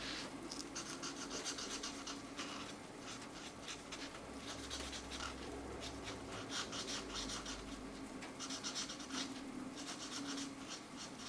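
Felt-tip marker scratching back and forth on colouring-book paper in several runs of quick strokes, with short pauses between.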